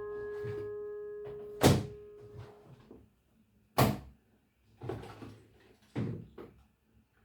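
A lingering ringing tone fades away over the first few seconds, and four separate sharp knocks follow, as of household objects being handled or set down.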